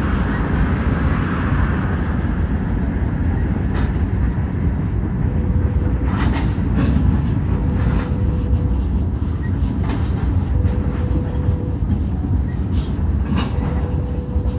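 Freight train of tank cars rolling slowly past, a steady low rumble with wheels clacking over rail joints at irregular intervals. A faint thin high tone comes and goes several times.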